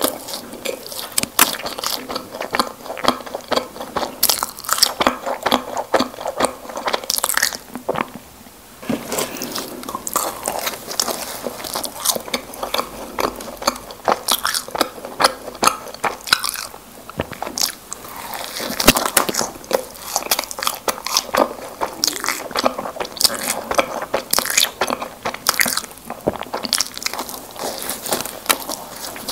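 Close-miked mouth biting and chewing Krispy Kreme doughnuts, a steady stream of small wet clicks and chews, with a short lull about eight seconds in.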